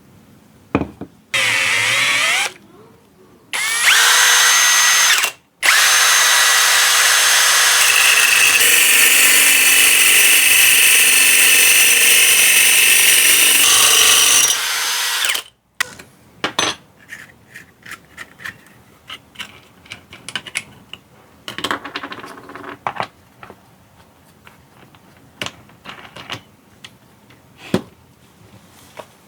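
Electric drill converted into a grinder, its motor running in short bursts and then one long steady run of about nine seconds. After it stops come a scatter of light clicks and knocks.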